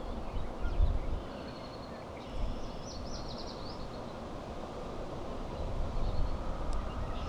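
Low rumble of a CSX double-stack container freight train going away down the track, with birds chirping over it about two and a half seconds in and again near the end.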